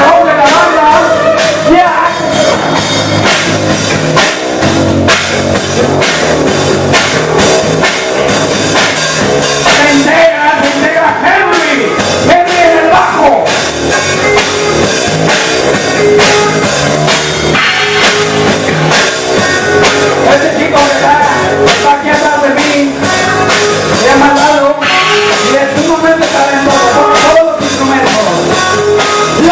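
Loud rock music with a drum kit and guitar playing steadily.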